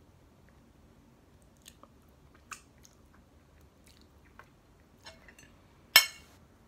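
Close-up mouth sounds of chewing soft cream-filled lamington sponge cake and licking fingers, with a few small wet smacks. About six seconds in, a sharp clink of a metal fork striking a ceramic plate, the loudest sound.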